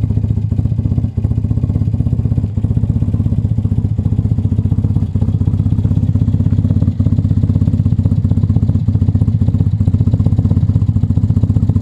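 BMW R80's air-cooled flat-twin engine running steadily at an even, low pulse, with no revving.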